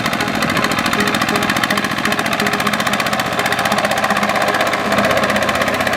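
Small Kubota tractor's diesel engine running steadily, with a fast, even knocking rhythm.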